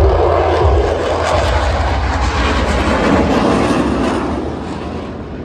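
Aircraft flying past: loud, rumbling engine noise that fades away over the last second or so.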